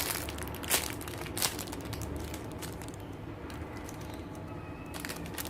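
Handling noise of squishy toys and their plastic wrapping: scattered crinkles and small clicks over a low hum.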